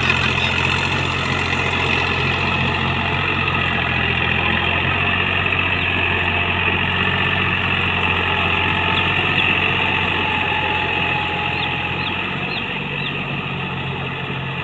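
Deutz-Fahr Agrolux 50 HP tractor's diesel engine idling steadily.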